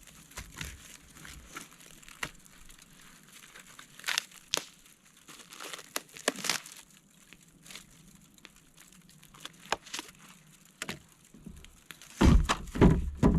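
Aluminium foil around a fire-cooked fish crinkling and crackling as it is opened and handled, in scattered short crinkles and clicks, with a louder run of crumpling near the end.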